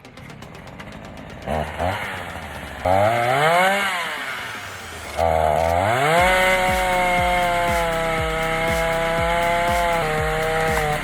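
Chainsaw engine revved up and back down once, then run up to a high steady rev that holds for about five seconds and dips slightly near the end.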